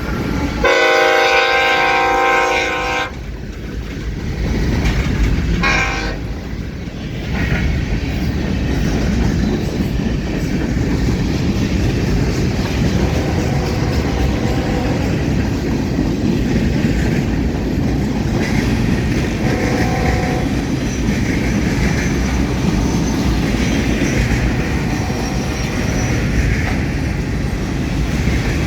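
Freight locomotive horn sounding one long blast and then a short one, followed by the steady heavy rumble of a long freight train rolling past, with its wheels clattering over a rail diamond crossing.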